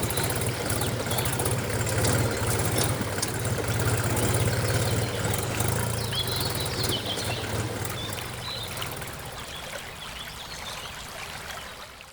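A small motor running with a steady low hum that fades away in the last few seconds, with birds chirping throughout.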